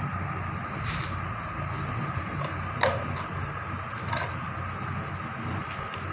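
A steady low mechanical hum, with a few sharp clicks or taps: one about a second in, a louder one near three seconds, and another a little after four seconds.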